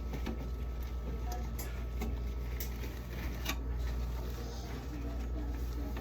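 Scattered light clicks and knocks from food containers being handled over a steady low hum.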